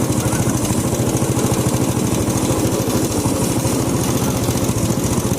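A vehicle engine running steadily, with a fast, even pulse.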